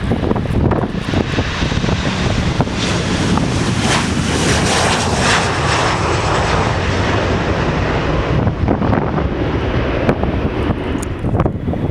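An airplane passing by, its engine noise swelling to a peak about midway and then fading, with wind buffeting the microphone.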